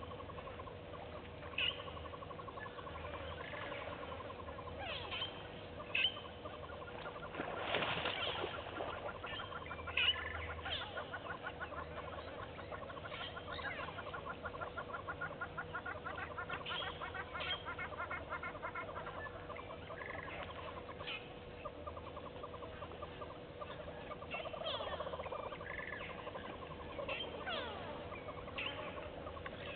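Wild birds calling in the bush, with scattered sharp chirps and calls and a long run of quick repeated trilled notes in the middle, over a steady faint hum.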